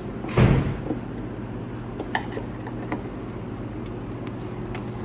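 Plastic wiring-harness connectors and clips being pried loose from an engine bay: a short rattling clatter about half a second in, then a few light sharp clicks, over a steady low hum.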